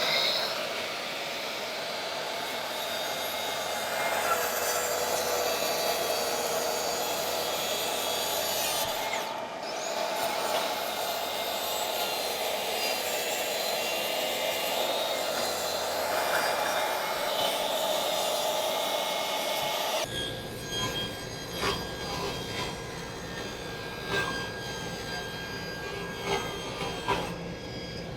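Track saw cutting through plywood sheet: a steady whining, rasping cut with a brief dip about nine seconds in. About twenty seconds in the sound changes abruptly to a thinner noise with scattered clicks.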